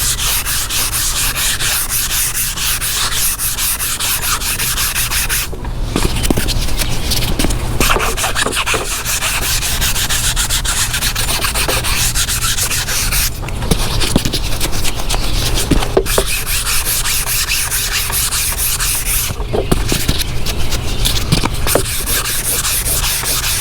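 Rapid back-and-forth rubbing over sanded body filler on a fiberglass bumper, as dry guide coat is wiped on with an applicator pad, broken by a few short pauses.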